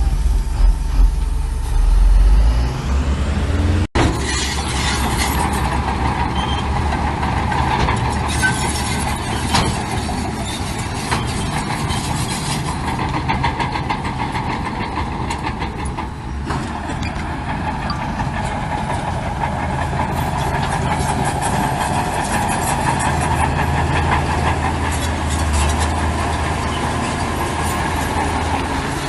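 Heavy diesel earthmoving machinery running steadily, a low engine rumble from dump trucks or a bulldozer, with a sudden break about four seconds in.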